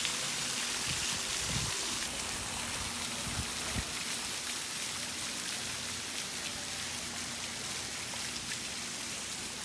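Steady hiss of falling water, like rain, with a few soft low thumps about a second and a half in and again around three and a half seconds in.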